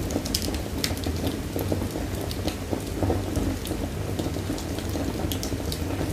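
Wood fire burning, with a steady low roar and irregular sharp crackles and pops scattered throughout.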